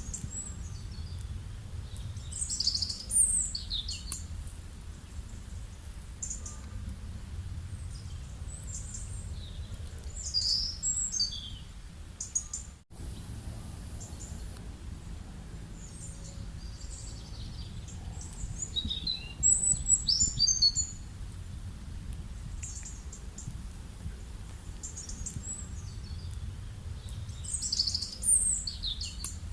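Small birds chirping and calling in short high bursts every several seconds, over a steady low rumble of rural outdoor ambience.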